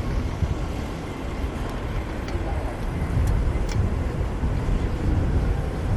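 Manhattan street traffic heard from a moving bicycle, with a steady low rumble of wind on the camera's microphone and a few faint ticks near the middle.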